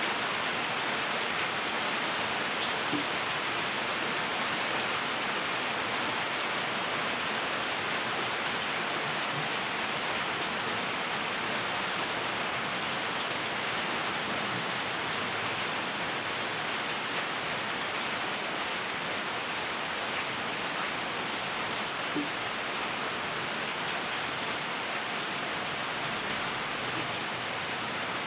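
Light rain falling steadily: an even hiss with a few single drops standing out now and then.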